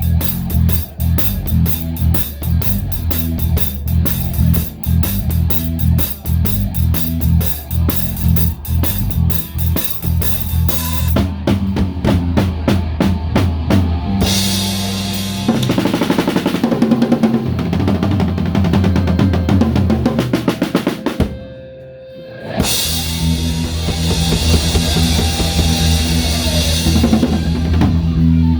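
Live rock band with a Pearl drum kit up front, its snare dampened with a towel, playing a song's closing section. A steady drum beat gives way to a build of drum rolls and crashing cymbals, a brief drop about two-thirds through, then a final cymbal-washed flourish that stops near the end.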